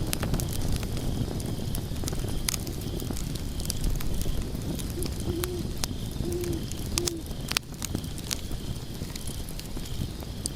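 Log fire burning in a fireplace: a steady low rumble of flames with frequent sharp crackles and pops from the burning logs, the loudest pop about seven and a half seconds in.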